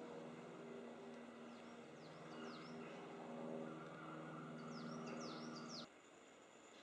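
Small birds calling with short, high, down-slurred chirps in two brief flurries. Under them runs a low buzzing drone, which cuts off abruptly about six seconds in.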